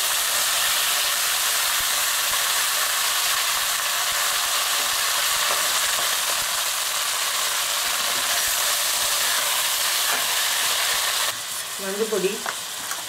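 Raw chicken pieces frying in hot oil in a steel pot, with a loud, steady sizzle and a metal ladle turning them. About eleven seconds in the sizzle drops abruptly to a quieter level.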